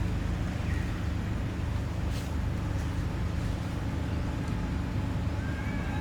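A steady low rumble, like a motor or engine running, with a short faint high-pitched chirp near the end.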